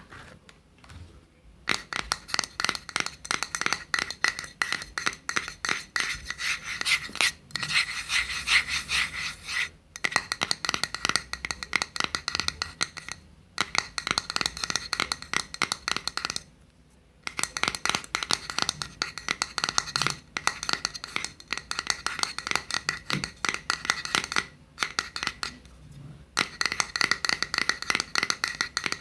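ASMR trigger sounds: fast scratching and rubbing strokes close to the microphone, in runs of a few seconds with short pauses between them.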